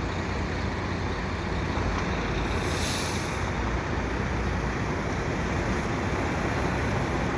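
Steady low rumble of city vehicle traffic, with a brief high hiss about three seconds in.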